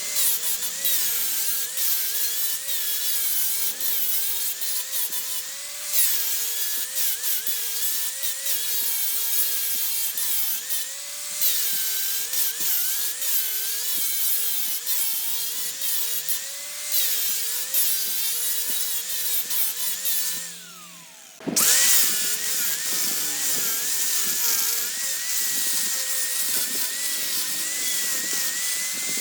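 Electric power tool cutting into wood, its motor whine wavering up and down under load over a steady rasping hiss. About two-thirds of the way through the motor winds down for a moment, then cuts back in.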